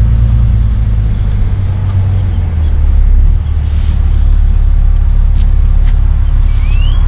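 Steady low rumble of a car moving, as heard from inside the vehicle, with a couple of short rising chirps near the end.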